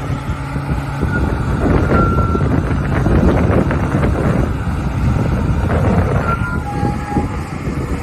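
Large engine of old heavy machinery running steadily, with a rough low rumble and a few short high squeals or tones.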